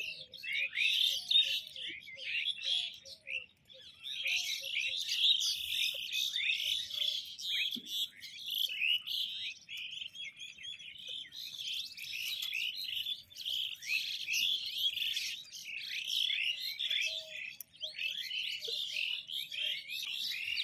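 Many small birds chirping at once, a dense, unbroken chorus of short high chirps. For the first few seconds a lower note repeats at a steady pace beneath it.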